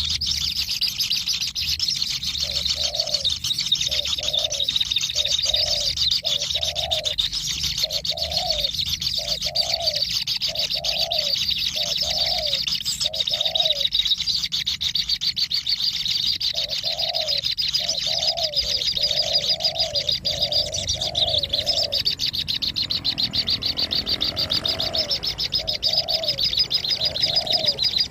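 Bird calls: runs of short, low, slightly rising cooing notes, about one and a half a second, that pause twice, over a continuous high, buzzing trill.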